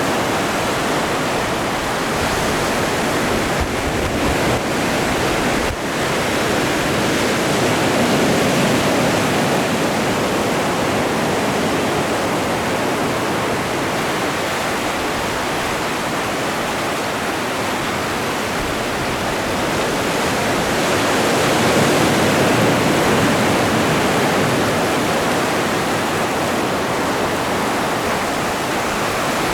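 Atlantic surf: a steady rush of breaking waves that swells up twice, about a quarter of the way in and again about three quarters in.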